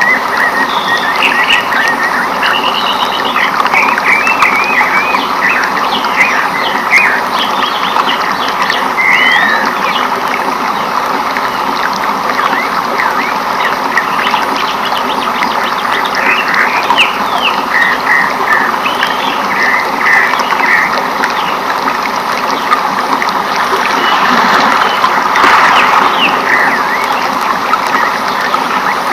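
Rainforest ambience: frogs and birds chirping and calling over a steady rushing background, swelling slightly near the end.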